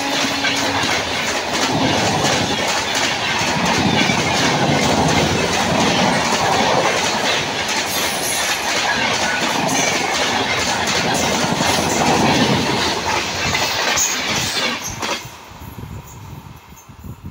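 Passenger train coaches rushing past close by at speed, wheels clattering rhythmically over the rails. A horn note fades out in the first second, and the train noise cuts off suddenly about fifteen seconds in.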